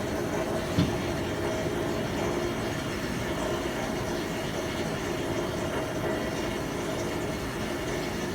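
A steady mechanical drone from a ship's engines, heard on board, with a single knock about a second in.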